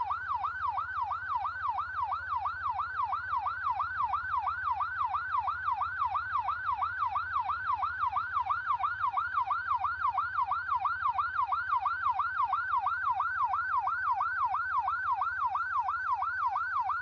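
Electronic siren sounding a fast yelp, its pitch sweeping up and down about three times a second at a steady rate, over a low hum.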